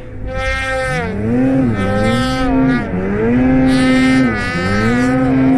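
Snowmobile engine running under throttle in deep snow, its revs dropping and climbing back up about four times, then held high near the end.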